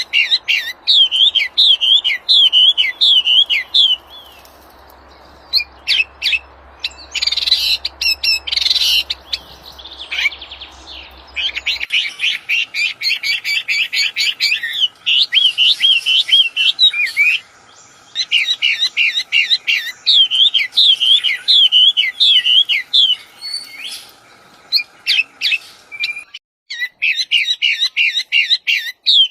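A wambi songbird singing energetically in long runs of rapid, wavering high chirps and trills, with short pauses between phrases.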